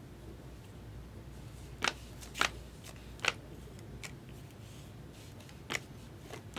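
Trading cards being handled while a pack is flipped through: about four short, sharp card snaps and slides spread over the stretch, over a low steady hum.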